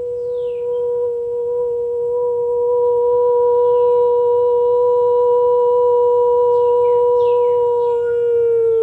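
A woman's voice holding one long, very steady sung tone, dipping slightly in pitch near the end, as light-language toning. Cardinals chirp over it with short downward-slurred notes, several near the end.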